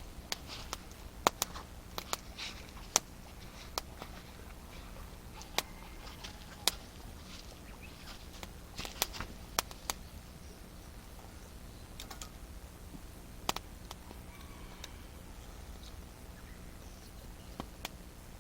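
Wood campfire crackling: sharp, irregular pops and snaps, some close together and some several seconds apart, over a faint steady low hum.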